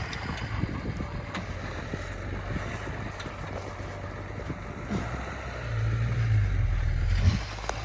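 A vehicle engine runs at a low, steady rumble. It grows louder about five and a half seconds in, then drops back just before the end.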